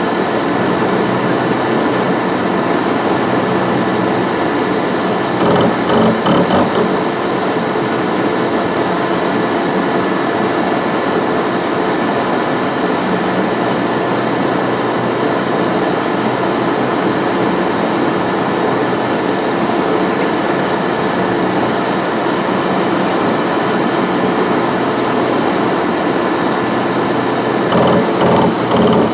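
A car driving, heard as steady road noise with tyre and engine drone. The noise grows briefly louder and rougher about six seconds in and again near the end.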